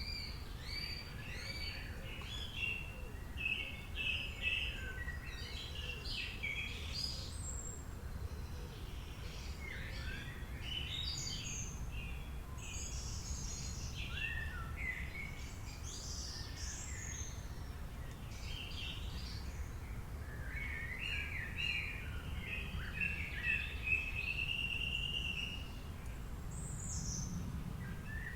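Several songbirds singing and chirping at once, overlapping short high calls, quick glides and trills, with a longer warbling phrase about three-quarters of the way through. A steady low rumble of background noise runs underneath.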